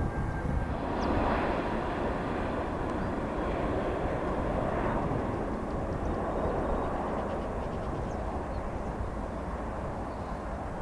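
Landing jet airliner's engines: a steady rushing noise that slowly fades.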